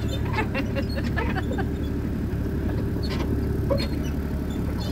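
Tractor engine running steadily while pulling a hayride wagon, a low drone with light rattling and knocking from the wagon.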